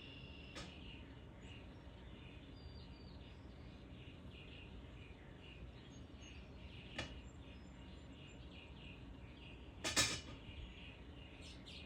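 Small birds chirping faintly and repeatedly over a quiet outdoor background, with a few sharp knocks: one near the start, one about seven seconds in, and the loudest about ten seconds in.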